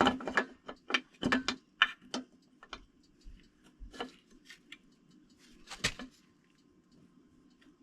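Sharp metallic clicks and taps of engine parts and a gasket being handled and fitted by hand: a quick cluster in the first two seconds, then a few scattered clicks, one louder near six seconds in.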